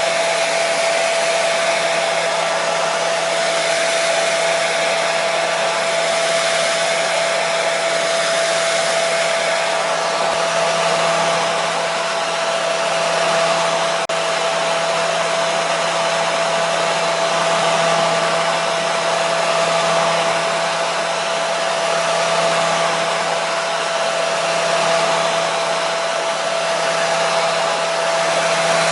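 Hair dryer running steadily: a constant rush of blown air with a steady motor hum, unchanging throughout.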